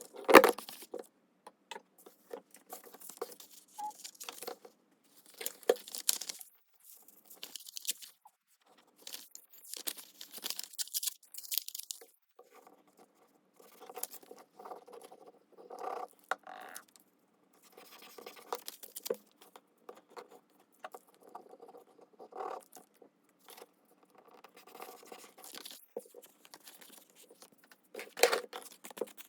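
Paper and card being handled by hand: stop-start rustling and scraping with light taps and clicks, and a few short, sharper hissy strokes.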